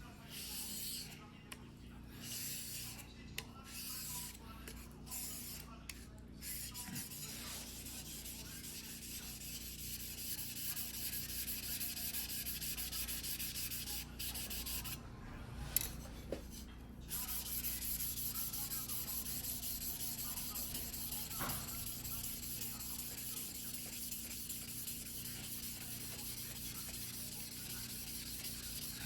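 A single-bevel fuguhiki sashimi knife ground by hand on a whetstone, steel scraping across stone in rasping strokes. The strokes come in short separate runs at first, then run almost without a break, pausing briefly about halfway.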